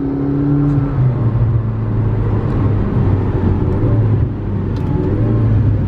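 McLaren 650S Spyder's twin-turbo V8 running on the move. Its note drops off right at the start, then holds at low, steady revs under a haze of road and tyre noise.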